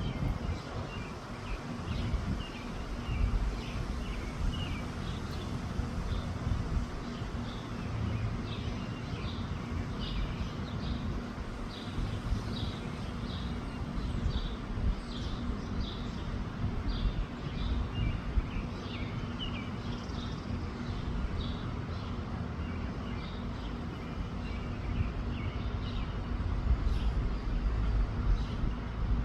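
Wind buffeting the microphone with a gusty low rumble, which grows stronger near the end. Small birds chirp repeatedly in the background.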